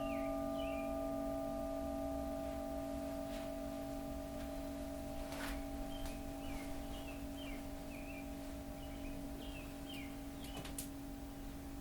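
Singing bowl ringing on after being struck or rimmed, its several held tones slowly fading. Repeated short high chirps sound over it, with a few faint clicks.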